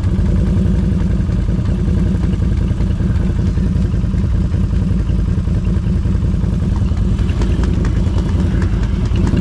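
ATV engine running steadily at a low, even speed.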